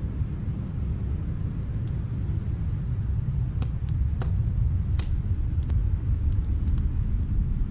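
Log fire crackling, with scattered sharp pops, over a steady low rumble of snowstorm wind.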